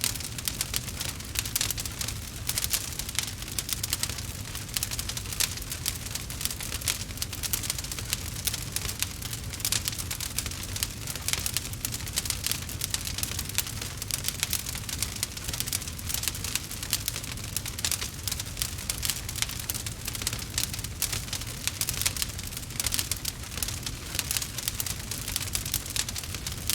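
Campfire crackling and popping steadily, a dense stream of small snaps over a low rumble.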